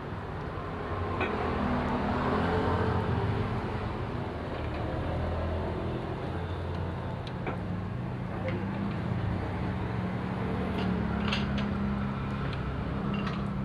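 An engine running steadily, a little louder for a couple of seconds near the start, with a few light metallic clicks.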